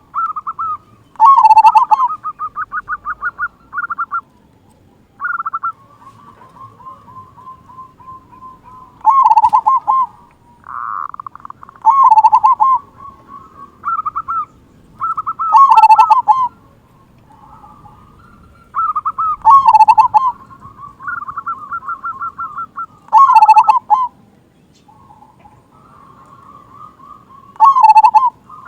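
Local zebra dove (perkutut) singing: repeated cooing phrases of quick stuttering trilled notes, each ending in a loud, heavy final 'kung' note, about every three to four seconds, with quieter trilled cooing between the phrases.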